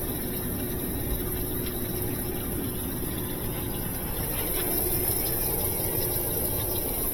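GE top-load washing machine running on a test cycle with its replaced lid switch: a steady hum with water noise, a little louder from about four seconds in.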